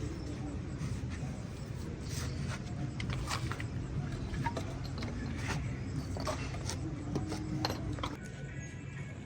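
Hand tools working on a car engine during an engine swap: irregular metallic clicks and clinks, like a ratchet and spanners on engine parts, over a steady low hum.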